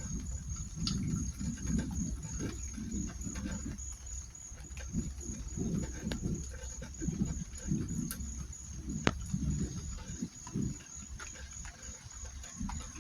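An insect trilling steadily in rapid, even pulses at a high pitch, over irregular low rumbling and a few sharp clicks.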